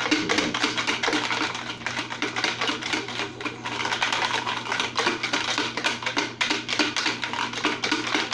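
A container holding the drawing entries being shaken hard, the entries inside rattling in a rapid, continuous clatter.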